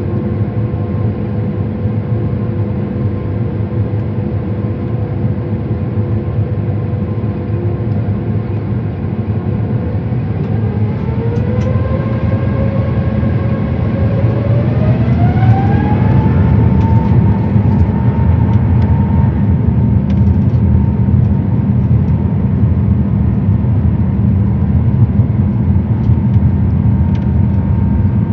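Airbus A350-1000 cabin noise during takeoff: the Rolls-Royce Trent XWB engines and a heavy steady rumble, with a whine that rises in pitch in two steps about ten seconds in and then holds, the noise growing slightly louder.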